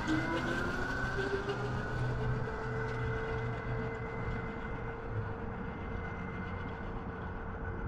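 48-volt electric dirt bike's motor whining as it accelerates, rising in pitch at first and then holding steady at speed in its mode 2 setting, over a rushing wind and tyre noise.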